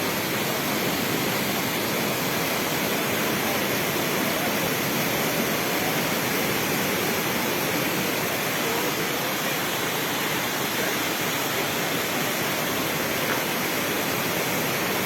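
A waterfall pouring and splashing in a steady, even rush of water.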